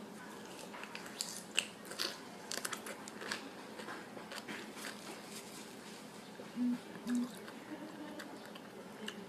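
A person chewing and biting into a lemon wedge, with faint wet mouth clicks and smacks scattered throughout. Two brief low hums come about six and a half and seven seconds in.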